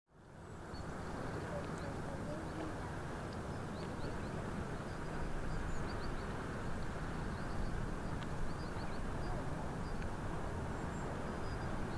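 Steady low rumble of a passing inland ship's diesel engine, with small birds chirping faintly now and then.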